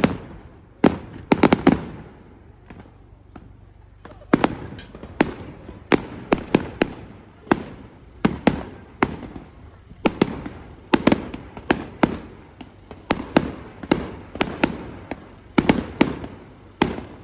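Fireworks going off: a rapid, irregular series of sharp bangs and cracks, with a short lull a few seconds in.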